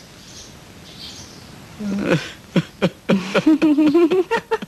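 Small birds, sparrows, chirping faintly, then from about two seconds in a louder voice-like sound with a wavering pitch and no words.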